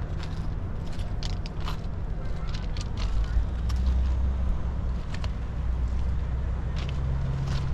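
Low engine rumble that grows stronger about three seconds in, with scattered clicks and ticks over it.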